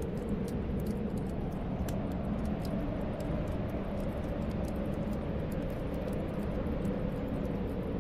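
Steady low wind of a snowstorm, mixed with the crackle of a wood fire in a fireplace: many small faint pops scattered throughout.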